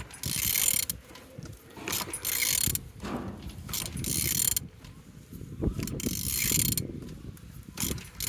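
A Weichai WP10 diesel engine being turned over by hand, with a ratchet and the engine's internals sounding in repeated strokes about every two seconds. The engine turns freely.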